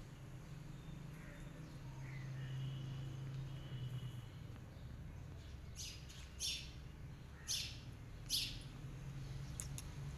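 A small bird chirps four times, about a second apart, starting about six seconds in, over a steady low hum.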